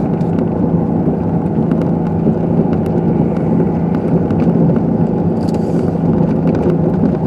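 Steady engine and tyre noise heard from inside a car's cabin while driving on a snow-covered road, with a constant low drone.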